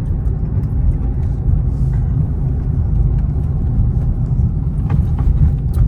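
Supercharged 6.2-litre HEMI V8 of a 2023 Dodge Charger Hellcat, still on its stock exhaust, with a steady low rumble as the car cruises, mixed with road noise.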